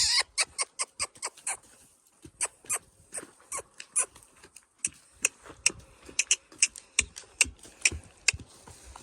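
A horse's hooves clip-clopping at a trot, led in hand: a quick, uneven run of sharp hoofbeats, about two to four a second.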